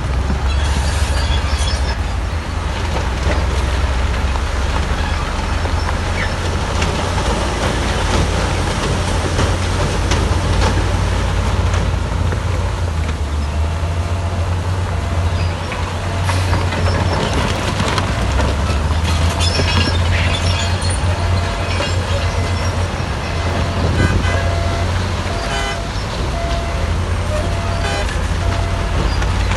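Heavy diesel earthmoving machinery running steadily under load, a deep low engine rumble with clatter and noise over it. In the second half, a faint short beep repeats on and off.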